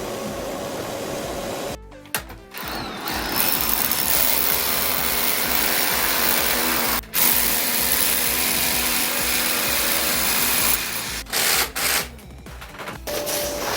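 Power drill running in long stretches, stopping and starting abruptly a few times.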